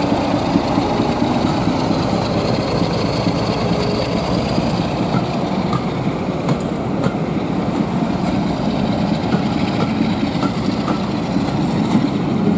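Train of passenger coaches rolling past, a steady rumble of wheels on rails with occasional light clicks.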